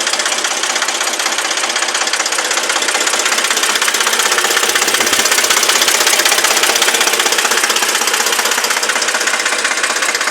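Deutz 50 tractor's diesel engine running steadily with a fast, even clatter that grows a little louder around the middle.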